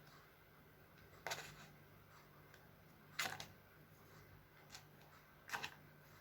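Faint eating sounds: a handful of short clicks spread over a few seconds, over a low steady hum.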